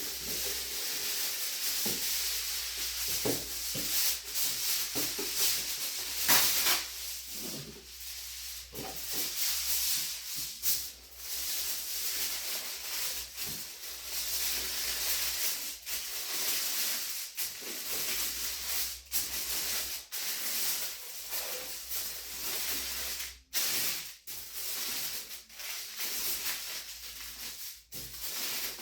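Crinkling and rustling of a sheet being scrunched up and twisted by hand, with many short, irregular crackles.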